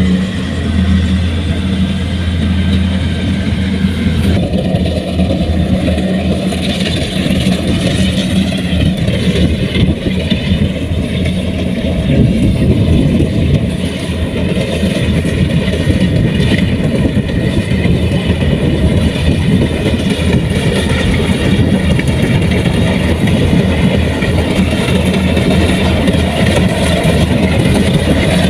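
Heavy farm machine's diesel engine running steadily under load, its low hum turning rougher and noisier about four seconds in.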